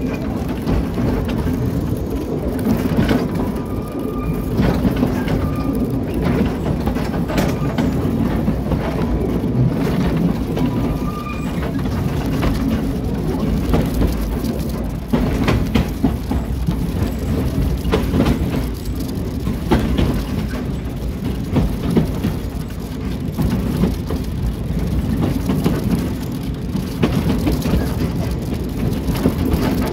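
Narrow-gauge forest railway train running through the woods: a steady rumble with constant clattering and rattling of the wheels on light track. Brief thin wheel squeals sound as it rounds a curve near the start and again about 11 seconds in.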